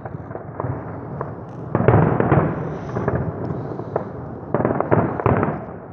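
Fireworks show: many quick bangs over constant crackling, with two dense volleys, one about two seconds in and another near the end.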